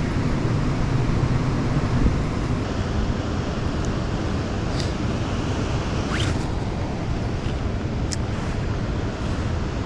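Steady rushing of fast-moving water, with a few faint brief higher sounds about five, six and eight seconds in.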